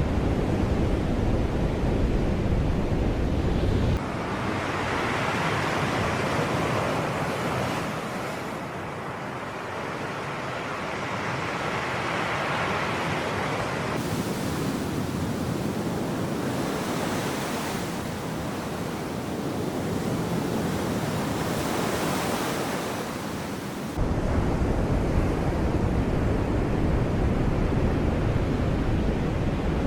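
Sea waves washing onto the shore, in swells of hiss that rise and fall. A heavy low wind rumble on the microphone covers the start, drops out suddenly about four seconds in, and cuts back in sharply near the end.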